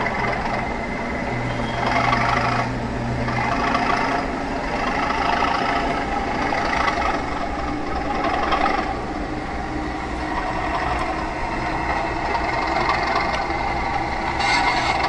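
Diesel locomotive engine running steadily, with a continuous droning tone.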